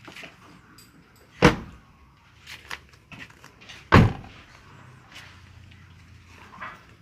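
Two loud slams of a car's bodywork being shut, about two and a half seconds apart, with lighter clicks and knocks between them.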